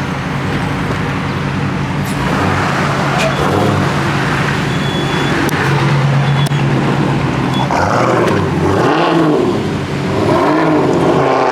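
Car engine running, a steady low tone with some changes in pitch in the second half.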